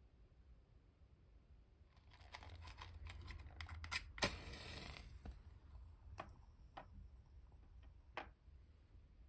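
Handling noise: a few seconds of rustling, like paper or packaging being torn or crumpled, with a sharp click in the middle, followed by several light clicks and taps.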